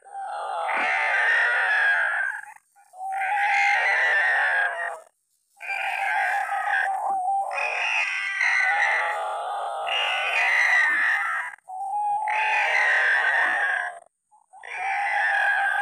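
White-breasted waterhen (ruak-ruak) calls: a loud, repeated croaking phrase, each bout about two seconds long, broken by short pauses.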